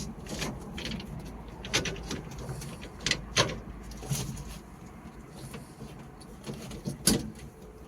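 Tractor gear shift lever being worked through its gears: a series of separate clicks and clunks, about six in all, spread over several seconds.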